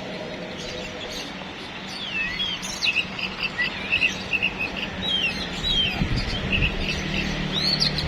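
Caged competition songbirds singing: quick repeated chirps and rising and falling whistles, starting about two seconds in, over a steady low hum.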